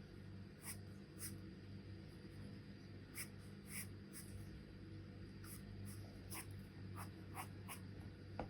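Charcoal pencil scratching on paper in short, irregular strokes, over a steady low hum.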